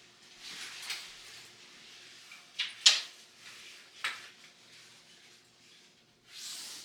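Household handling sounds: soft rustling, then three sharp knocks or clacks over about a second and a half, the second the loudest, like something being set down or a drawer or door moving, followed by another rustle near the end.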